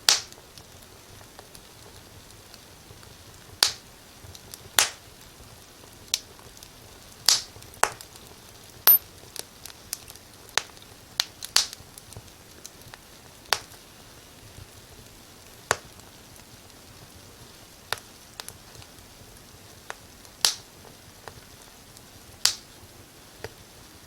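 Wood fire crackling in a fireplace: irregular sharp pops and snaps, a few much louder than the rest, over a faint steady hiss.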